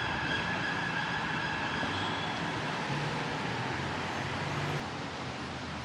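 Traffic noise on a wet city street: a steady hiss with a vehicle's engine hum and a few held whining tones. The hum and whine fall away about five seconds in, leaving the hiss.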